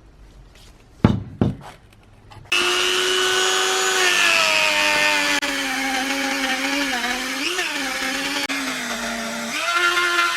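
Restored bench grinder's motor and wheel running, with grinding hiss over the steady pitched hum. The pitch sags slightly as if a workpiece is pressed to the wheel, then climbs back near the end. Two sharp knocks come just before it starts.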